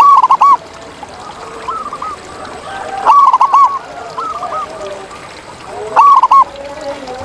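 Zebra doves (perkutut) cooing: loud clusters of short, rapid, arched coos that repeat every second or two, over fainter overlapping coos from other doves.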